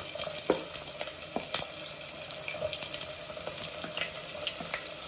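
Chopped onions sizzling in hot oil in a pan: a steady hiss with many scattered sharp pops and clicks as more onion is scraped in with a wooden spatula.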